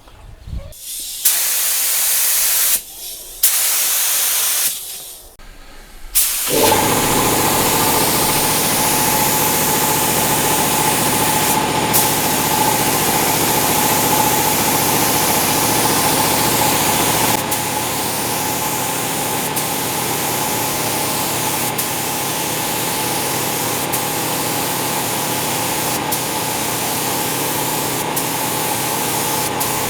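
Paint spray gun spraying clear coat: two short bursts of hiss, then steady continuous spraying from about six seconds in, with a steady mechanical hum under the hiss.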